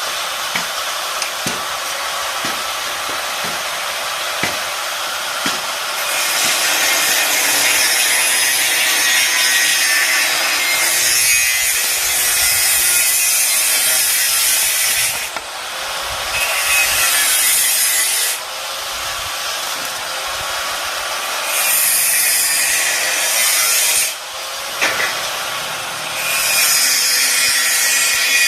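Metalworking on a welded metal frame: a loud, harsh rasping hiss that comes in runs of a few seconds with short breaks between them.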